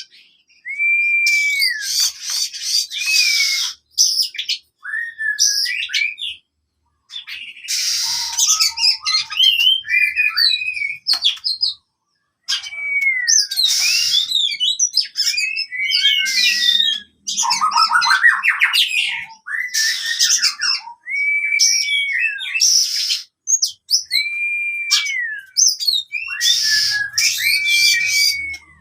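Oriental magpie-robin (kacer) singing its agitated fighting song: a busy run of varied whistled phrases, many of them arched or sliding notes, broken up by harsh rasping bursts and a couple of short pauses. It is the combative, challenging song used to stir up a magpie-robin that has stopped singing.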